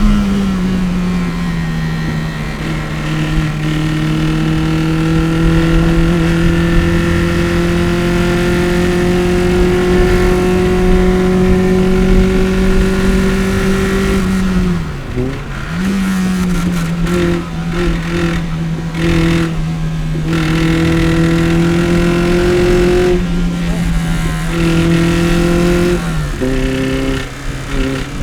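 Toyota MR-S's 1ZZ inline-four with a header and aftermarket exhaust, heard on board at full load on track, its revs climbing slowly. About halfway the revs dip briefly and recover, and near the end they drop to a new pitch.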